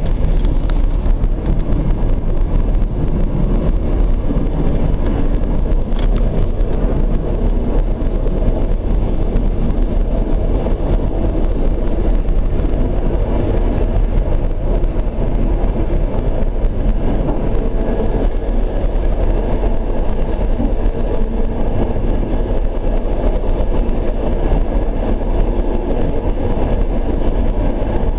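Suburban passenger train running along the track: a steady, deep rumble of wheels and running gear, heard from inside the carriage.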